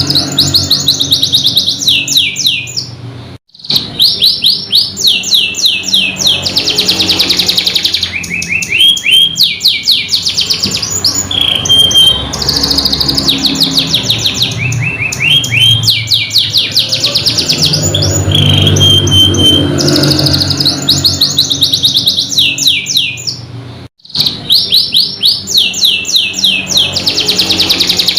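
Domestic canary singing continuously in fast rolling trills, with repeated rattling phrases and a few short held whistle notes. The song breaks off abruptly twice, briefly.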